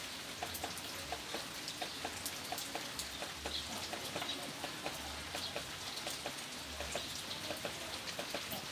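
Eurasian tree sparrow giving a few brief high chirps over a fast, irregular patter of small ticks and clicks.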